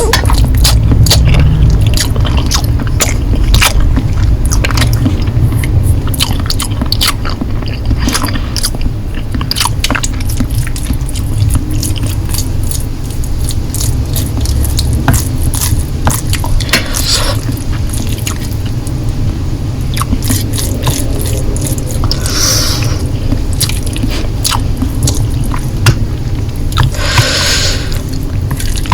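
Close-miked chewing of Korean noodles: a run of wet smacking and squishing clicks from the mouth, broken three times by a slurp lasting about a second.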